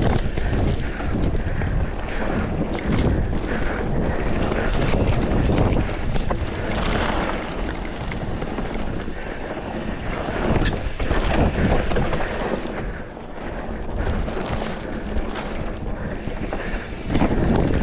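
Wind buffeting the microphone while riding a mountain bike, with a rumble and scattered short clicks and rattles.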